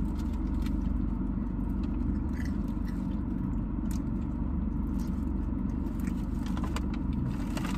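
Steady low hum inside a car with its engine running, with faint chewing of fried food on top: soft scattered crunches and mouth clicks.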